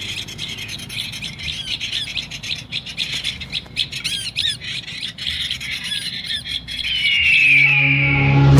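Rapid, repeated sharp chirps of a small warbler-type bird, the prenjak, many calls a second and one drawn-out falling note near the end. Background music with steady low tones comes in over the last second or so.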